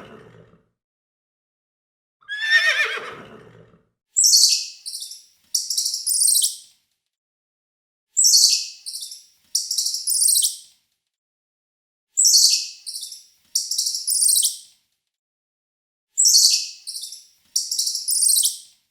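A horse whinnies once, falling in pitch, about two seconds in. Then a bird gives a high-pitched call four times, about every four seconds, each time two or three short notes followed by a longer trill.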